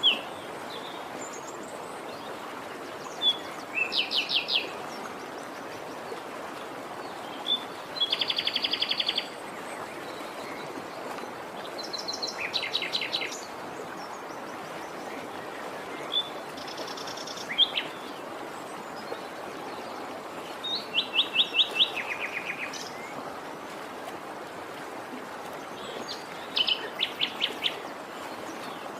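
Songbirds singing: short, rapid trills of repeated notes, each about a second long, coming every few seconds over a steady background hiss.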